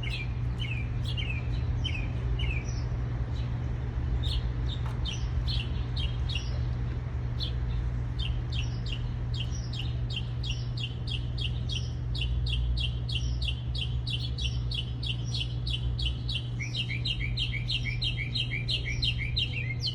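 Small birds chirping in short repeated notes, sparse at first and then a fast, dense run of about three or four chirps a second from about halfway through, over a steady low hum.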